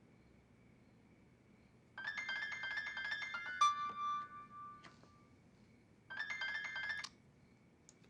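Telephone ringing with an electronic ringtone of fast repeating notes, in two rings: one starting about two seconds in and a shorter one near the end.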